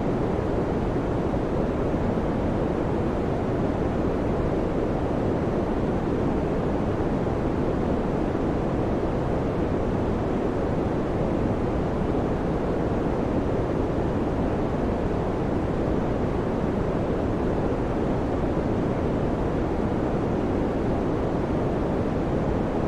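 Electric fan running steadily: an even, low-pitched rushing of air with no changes in pitch or level.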